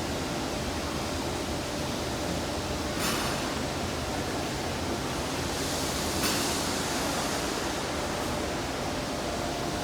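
Steady machinery noise: an even hiss over a low hum, with two brief louder noises about three and six seconds in.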